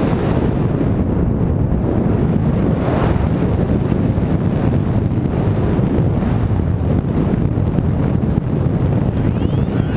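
Wind buffeting the microphone: a loud, dense, steady rumble with no clear tone in it.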